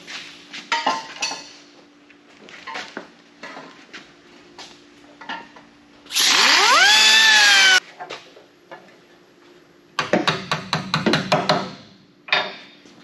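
A handheld power tool spins up with a loud whine that rises quickly in pitch, runs for about a second and a half, and cuts off abruptly. Later comes about two seconds of rapid, loud rattling. Both are heard against scattered knocks and clatter of metal being handled, during sheet-metal rust repair on a truck cab corner.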